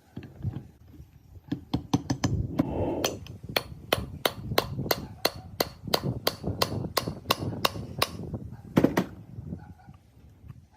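A hammer striking a metal part in quick, even blows, about three a second, ending with one heavier blow near the end.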